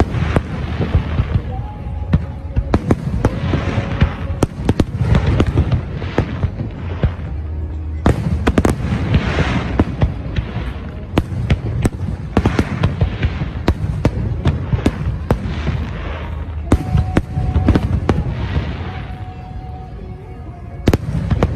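Fireworks display: aerial shells bursting in quick, irregular succession, sharp bangs over a continuous low rumble and crackle.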